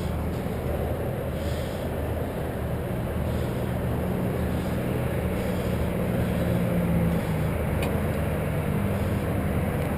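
A steady low droning hum, even in level throughout.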